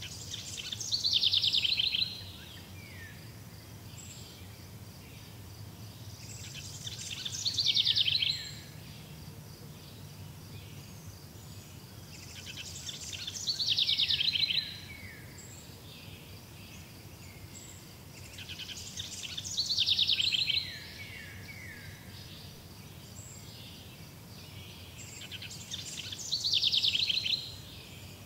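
A bird singing the same phrase five times, about every six seconds: each is a high trill of rapid notes that grows louder for a second or two and ends in a few falling notes. A steady low background hum lies under it.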